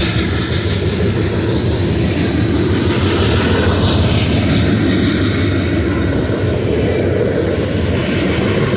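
Freight train rolling past: a steady, loud rumble of wheels on the rails, unbroken throughout.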